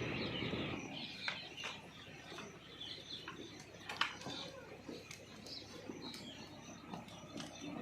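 Small birds chirping in short, scattered calls, with occasional sharp clicks and knocks and a low background rumble that is louder in the first second.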